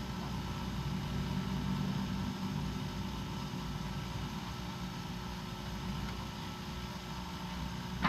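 Bench grinder motor running steadily with a low hum. A single sharp click comes right at the end.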